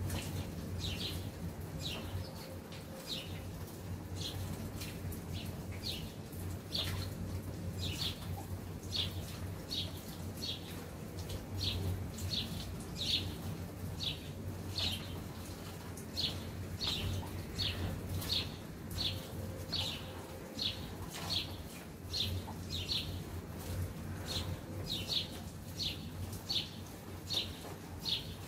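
A small bird chirping over and over, short sharp chirps about once a second and sometimes in quick pairs, over a steady low rumble.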